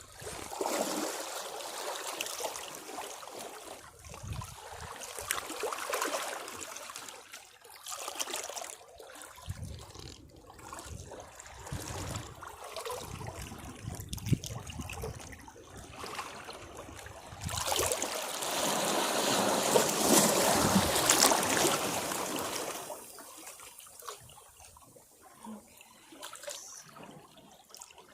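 Caribbean sea waves washing against rocks: the water surges in and drains back again and again, in uneven waves, with one larger, louder wash lasting several seconds past the middle.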